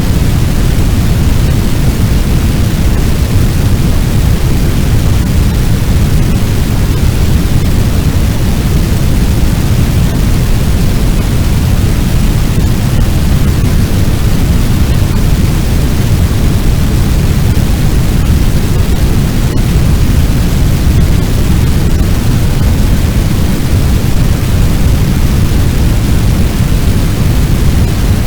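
Fire sound effect: a steady, deep rushing noise like a large blaze, heaviest in the low end and unchanging throughout.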